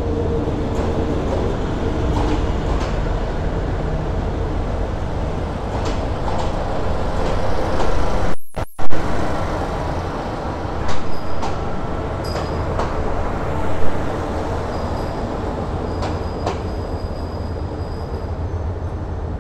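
Diesel multiple-unit passenger train pulling slowly out past the platform: a steady low underfloor engine drone with wheels clicking over the rail joints. There are a few louder knocks around the middle and faint high wheel squeal in the second half. The sound cuts out for a moment about halfway through.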